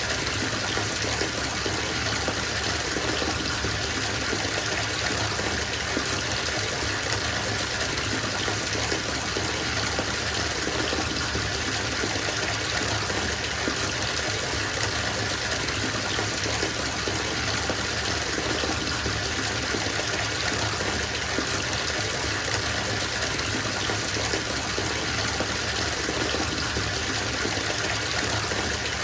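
Bathtub filling: water gushing steadily from the tap into the tub.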